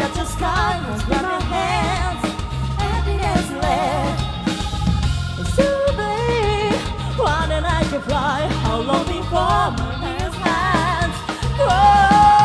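Live rock band playing: a steady drum and bass groove under a wavering, bending lead melody. Near the end the music gets louder and a long note is held.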